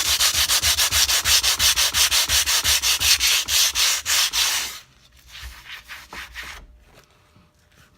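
60-grit sandpaper rubbed by hand over the rusty steel head of a single-bit axe, taking off the first layer of surface rust. Quick, even back-and-forth strokes, about six a second. The strokes drop off sharply about five seconds in and carry on faintly for a couple of seconds more.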